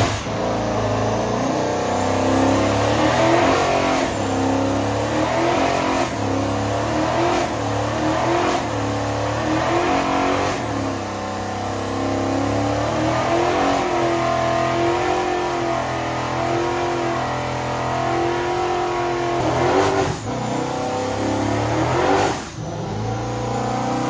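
A car's engine revved hard again and again during a burnout, each rev rising sharply in pitch. It is held at steady high revs for several seconds in the middle, then revved twice more near the end.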